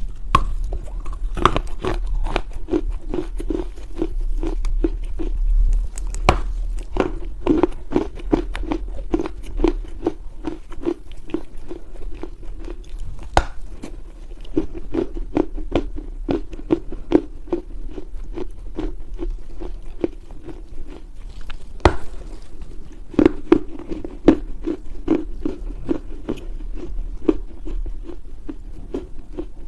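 Someone biting and chewing pieces of dry Chinese loess clay: many soft crunches and crackles, with a steady chewing rhythm of about two to three chews a second.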